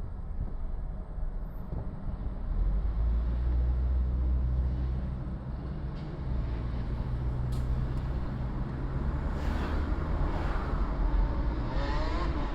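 City street traffic heard from a car driving through it: a steady low engine and road rumble, a few sharp clicks near the middle, and louder vehicle noise building over the last few seconds.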